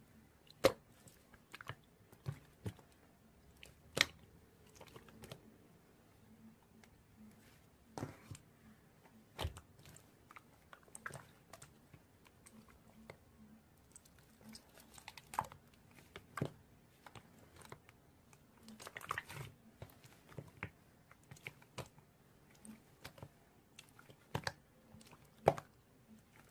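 Scattered sharp clicks and crunches at irregular intervals, a few much louder than the rest, with a short run of crackling partway through.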